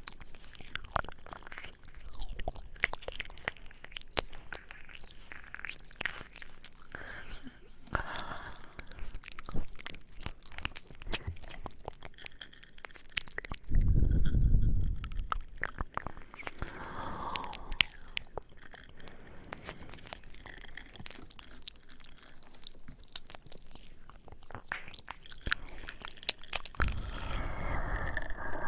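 Close-miked ASMR mouth sounds: a dense run of short clicks and smacks, with one louder, low burst about halfway through lasting a second or so.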